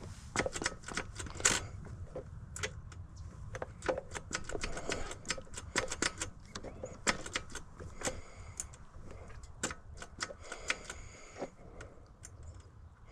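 Irregular light clicks and knocks, a few a second, from the dirt bike being handled and its controls worked while it is readied for a start; the engine is not running.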